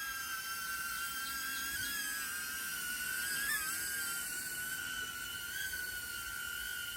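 HoverAir X1 drone's propellers whining steadily in flight overhead, the pitch wavering briefly twice, at about two seconds and three and a half seconds in.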